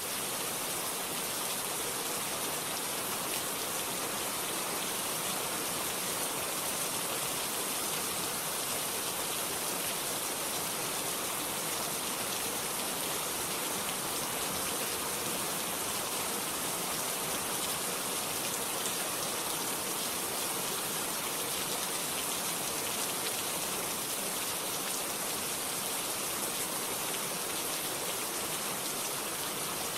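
Steady rain falling, an even hiss strongest in the high end, with no distinct drops or thunder.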